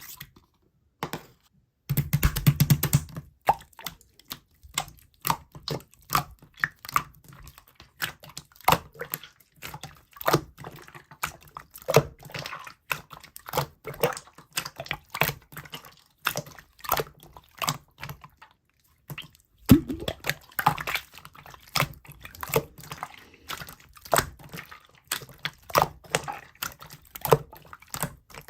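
Slime being squished and worked by hand, making a steady run of irregular wet clicks and pops.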